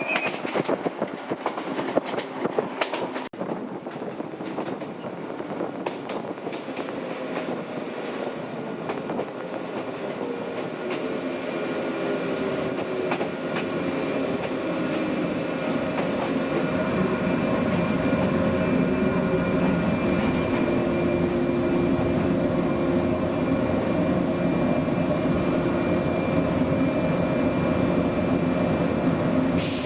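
Old JNR-type electric train running on the rails, with wheel-on-rail clatter and a motor tone; it grows louder over the first half and then runs steadily.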